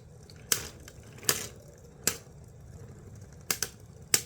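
Plastic Beyblade spinning tops clacking against each other in the stadium during a battle: about six sharp, irregular plastic clicks, two in quick succession past the middle and a loud one near the end.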